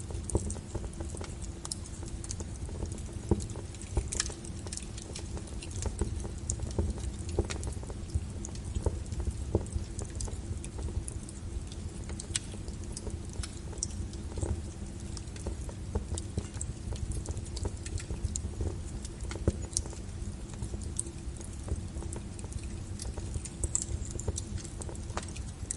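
Burning logs in a fireplace crackling, with irregular sharp pops and snaps over a low, steady rumble of the fire, and a faint steady hum underneath.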